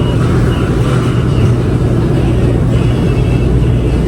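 Steady low hum and rumble of laundromat machines running.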